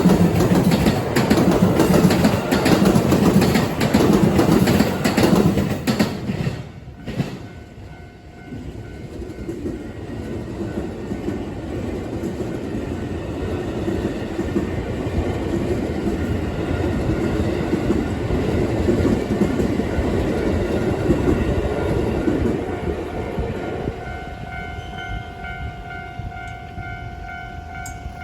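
JR Hanwa Line electric trains passing over a level crossing, the wheels clattering on the rail joints. The noise dips sharply about seven seconds in and builds again as another train passes. Near the end, as it fades, the crossing's warning bell rings plainly with a steady repeating tone.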